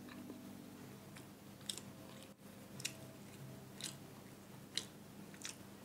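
A person chewing crunchy food with the mouth closed, with faint crisp crunches about once a second.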